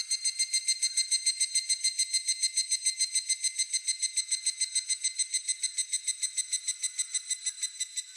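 Higurashi (evening cicada) calling, a high, ringing trill of rapid, evenly spaced notes that keeps a steady pace and stops near the end.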